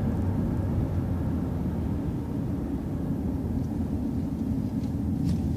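City transit bus running, heard from inside the bus as a steady low rumble, with a few faint ticks near the end.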